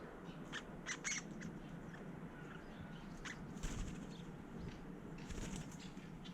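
Scattered short, sharp bird ticks and chirps, a few at a time, over a faint steady background hum.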